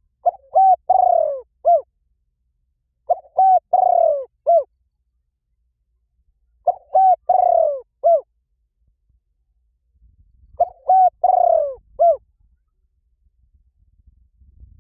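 A bird call repeated four times, about three and a half seconds apart: each phrase is two short notes, a longer falling note and a short final note, the same each time, as a lure call played for birds.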